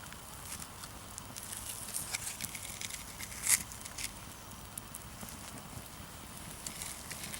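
A large mass of burning matches crackling, with scattered sharp pops and one louder pop about halfway through.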